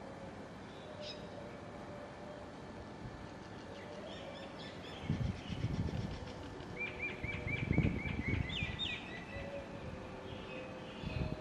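Small birds calling outdoors: faint high chirps, then about seven seconds in a quick run of roughly eight short repeated hooked notes lasting about a second and a half. Low rumbles underneath come and go.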